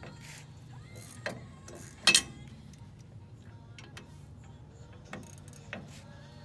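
Ratchet wrench clicking in short, irregular spells while loosening the bolts that hold a brake master cylinder, with a sharp metallic clink about two seconds in.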